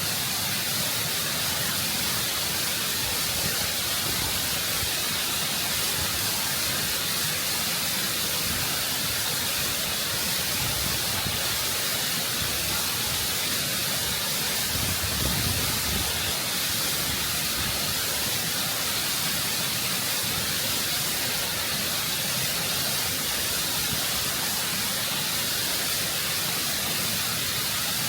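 Waterfall cascading over rock, heard close up: a constant, full rush of water with a brief low surge about halfway through.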